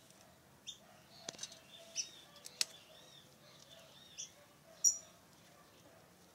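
Small birds chirping: short high chirps every second or so, with a short run of quick arched notes in the middle. Two sharp clicks, the second the loudest sound.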